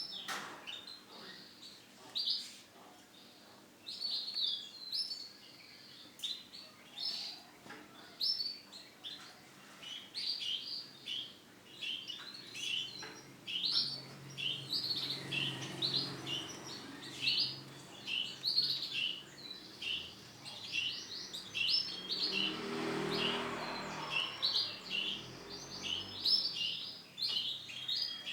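Male canary singing: short, quick chirping phrases, one after another, with brief pauses between them.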